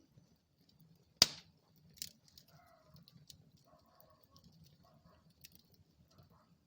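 Wood fire burning in a fireplace: scattered small crackles over a low steady rumble of the flames, with one sharp loud pop about a second in and a smaller pop about two seconds in.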